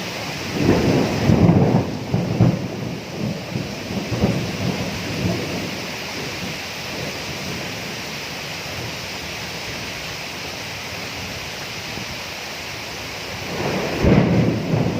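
Steady rain falling, with a thunderclap about half a second in that rumbles on and fades over several seconds. A second peal of thunder starts near the end.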